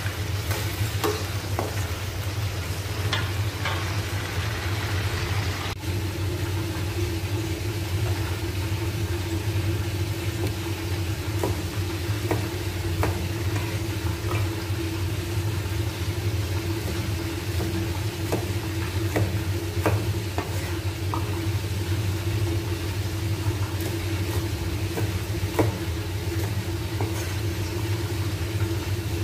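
Chicken frying in oil in a wok, sizzling, with a spatula stirring and scraping. After a cut about six seconds in, a steady hum carries on with scattered sharp knocks of a cleaver on a wooden chopping board.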